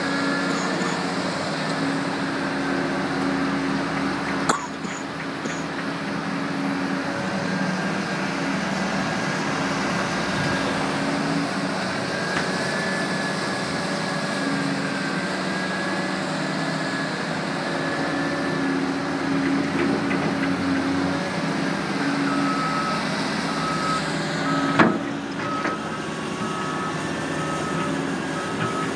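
Diesel engine of a backhoe loader running steadily under work, with two sharp knocks, the louder one near the end. A reversing alarm starts beeping steadily about three quarters of the way through.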